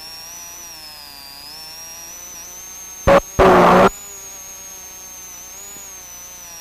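Off-road race truck's engine droning as a hum with many overtones that slowly rises and falls in pitch. A little past three seconds in, a loud burst of noise cuts in for about half a second and stops abruptly.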